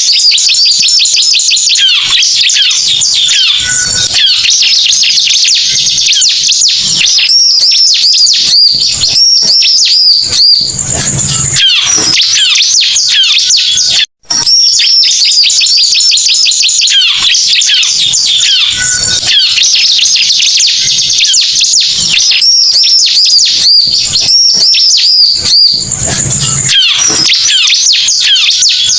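Bar-winged prinia (ciblek) song played as a bird-lure recording: dense, continuous high chirping and rapid trills. There is a momentary dropout about fourteen seconds in, after which the same sequence repeats as a loop.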